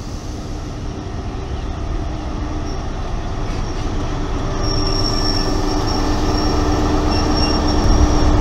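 A Class 43 High Speed Train rolls past along the platform: the coaches run by with a steady rumble, then the rear power car's diesel engine comes level and grows louder. From about halfway through, a steady high whine sounds over the rumble and hum.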